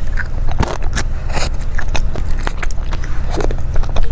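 Close-miked eating sounds: a person biting and chewing food, with many irregular short, crisp clicks and smacks over a steady low hum.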